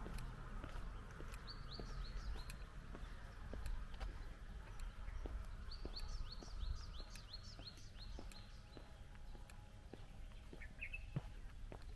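A small songbird calling in two quick runs of short, falling chirps, with a brief separate call near the end. Faint footsteps and a low outdoor rumble sit underneath.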